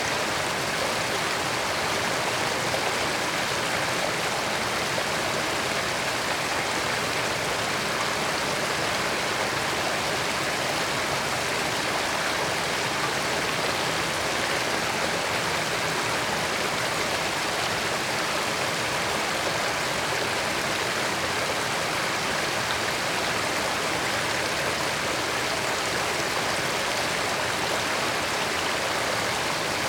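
Creek water running steadily over rocks: a continuous, even rush of flowing water.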